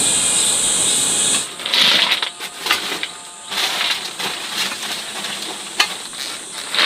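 Steady high-pitched insect buzz that cuts off suddenly about a second and a half in. It gives way to irregular crunching and clinking handling sounds with sharp clicks.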